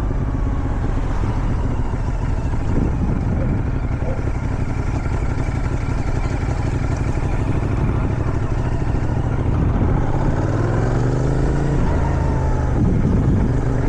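Motorcycle engine running under heavy wind noise, with the revs climbing about ten seconds in as the bike accelerates.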